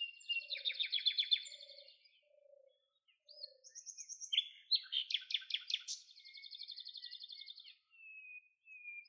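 Small birds chirping in two bouts of rapid, high trills, with a short gap between them and a few thin whistled notes near the end.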